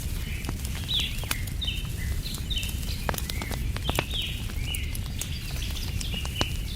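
Campfire crackling with scattered sharp pops over a steady low rumble, while a bird calls over and over with short, falling chirps, about two a second.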